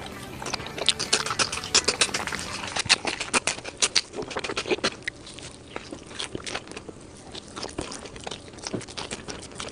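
Close-miked chewing of crisp-skinned roast pork belly: a fast run of crunchy crackles through the first half, thinning to scattered crunches after about five seconds.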